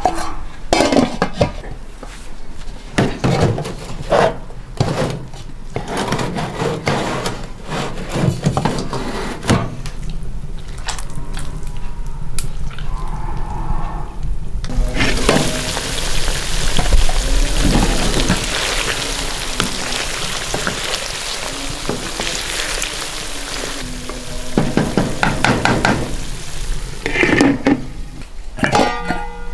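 Pots, lids and a metal skimmer clinking and knocking, then chicken pieces sizzling in hot oil in a lidded wok for about ten seconds from halfway in, with more clinking of metal near the end.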